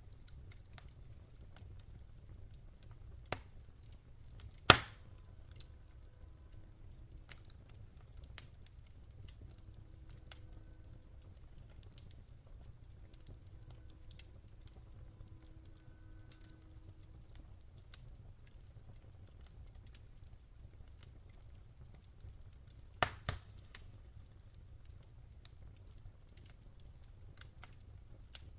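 Campfire burning, with sparse crackles and pops of burning wood over a low steady rumble; one loud sharp pop about five seconds in and a few more close together near 23 seconds.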